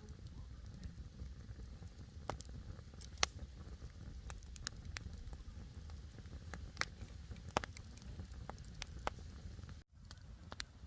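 Small wood campfire crackling, with scattered sharp pops over a steady low rumble. The sound cuts out for an instant near the end.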